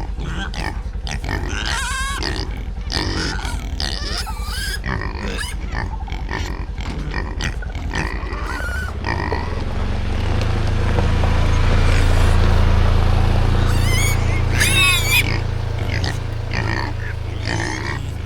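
Pigs and piglets grunting and squealing while they feed, in quick overlapping calls. About halfway through, a steady low rumble swells and fades beneath them, and a few high squeals rise over it.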